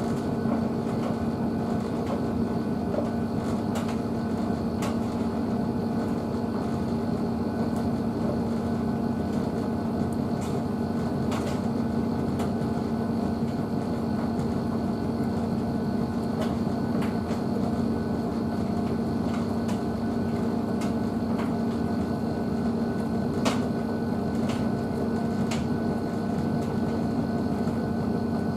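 Blomberg WNF9448 front-loading washing machine running its wash cycle with the drum turning a load of dog bedding: a steady hum with a few light clicks and knocks scattered through.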